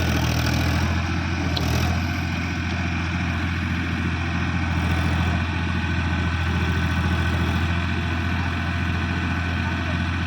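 Tractor diesel engine idling steadily, with no revving.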